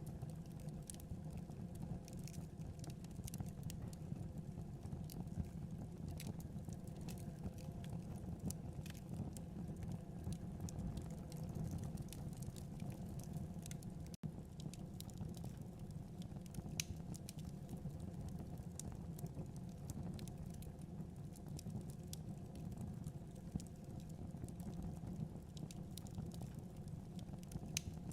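Wood fire burning in a fireplace: a steady low rumble of flames with frequent small, irregular crackles and pops. The sound cuts out for an instant about halfway through.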